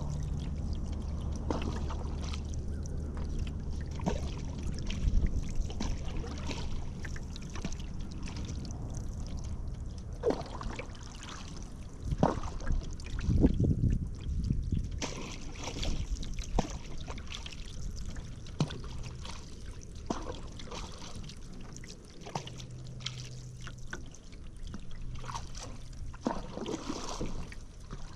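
Paddle strokes in river water: the blades dipping and splashing, and water trickling off the paddle, in an irregular run of small splashes.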